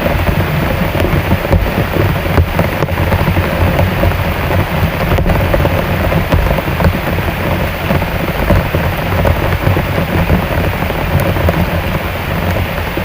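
Heavy rain falling in a steady, dense downpour, with a deep low rumble running underneath.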